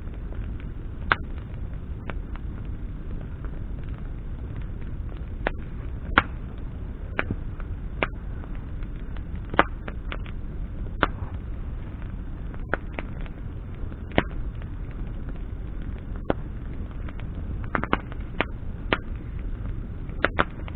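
Wood campfire burning, with sharp crackling pops of burning branches at irregular intervals, about one a second, over a steady low rumble.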